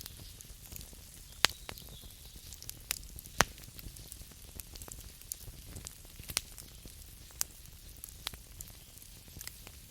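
Campfire burning: scattered sharp crackles and snaps of burning wood over a soft low hiss, with two loud pops about one and a half and three and a half seconds in.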